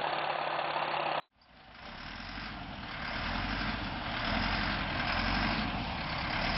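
Heavy diesel engines running steadily; about a second in the sound cuts off abruptly and a different, lower engine rumble fades back in.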